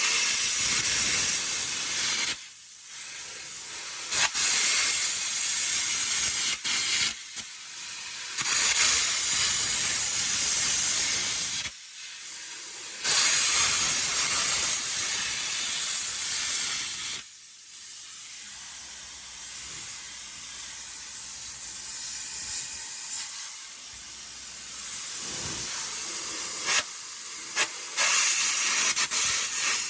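Air carbon arc gouging on steel plate: a loud, hissing crackle of the arc and compressed-air jet, in long runs broken by about four short pauses.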